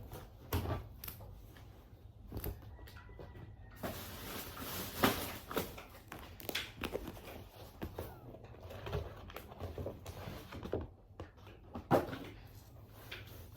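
Curtains being handled and hung on a rail: irregular clicks and knocks, the loudest about five seconds in and again near the end, with fabric rustling through the middle.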